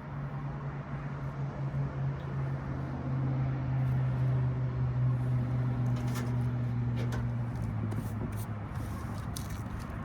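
Steady low machine hum that swells in the middle and changes pitch about three quarters of the way through, with a few light clicks near the end.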